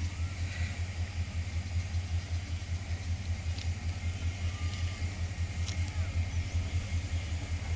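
Diesel locomotive engine running with a steady low throb that pulses evenly several times a second.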